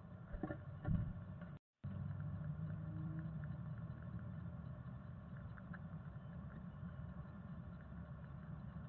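Inside a chickadee nest box, heard through the box camera's microphone: a steady low hum with faint scratching and ticking, and a couple of louder knocks about a second in. The sound cuts out briefly just after that.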